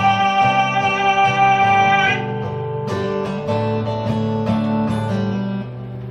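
Acoustic guitar playing the accompaniment under a long sung note that ends about two seconds in. The guitar then plays on alone with picked or strummed chords.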